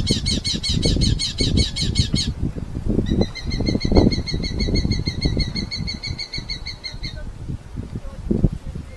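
Red-footed falcon giving rapid chattering call series: one run of about two seconds, then after a short pause a longer run of about four seconds, many notes a second. Underneath, close rustling and knocks from handling.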